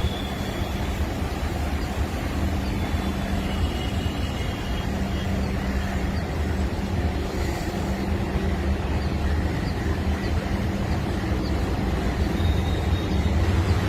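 Vande Bharat Express electric train running: a steady rumble with a low hum that gets a little louder near the end.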